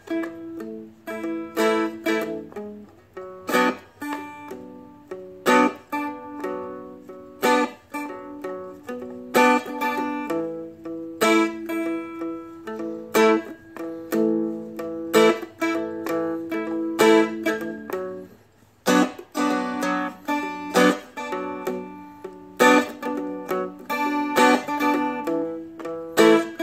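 Seagull Merlin, a small four-string dulcimer-style instrument, strummed in a slow pattern through the song's two chords, A and B minor, with a strong accented strum about every two seconds and lighter strokes between.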